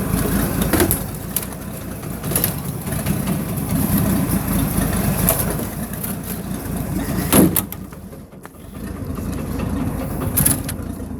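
Ford truck engine idling in first gear, turning the drive shaft and a jacked-up rear wheel, with a few sharp knocks and clunks from the drivetrain. The sound drops quieter for a moment about eight seconds in.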